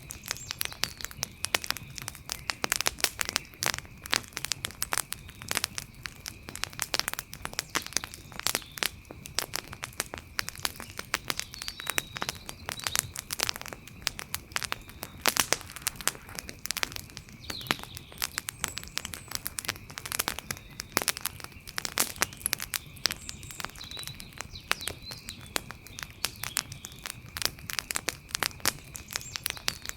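Wood campfire crackling with dense, irregular pops and snaps of varying loudness, over a faint steady high tone.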